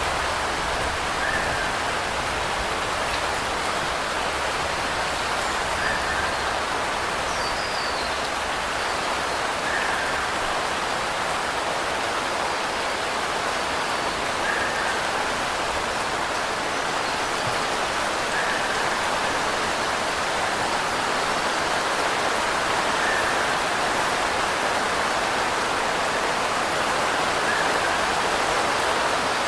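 Steady rain falling, an even hiss without pauses. A faint short chirp recurs about every four seconds.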